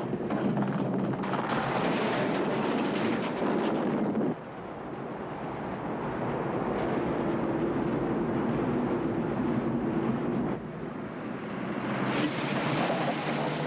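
Roaring storm wind with a low steady rumble. The sound changes abruptly about four seconds in and again about ten and a half seconds in.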